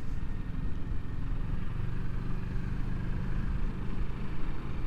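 Kawasaki Ninja 650's parallel-twin engine running at a steady, even note at low town cruising speed, under wind rumble.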